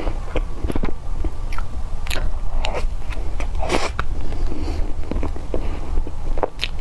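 Close-miked mouth sounds of eating soft cream cake: wet chewing, lip smacks and small clicks, coming irregularly, with a louder wet smack a little past the middle.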